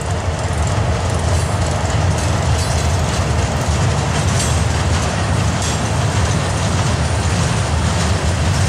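A freight train of gondola cars rolling past close by: a steady rumble of steel wheels on the rails, with a few faint clicks.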